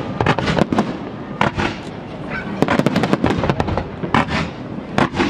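Aerial fireworks shells bursting in a rapid, irregular series of sharp bangs and crackles over a continuous low rumble, with a dense cluster of reports near the middle.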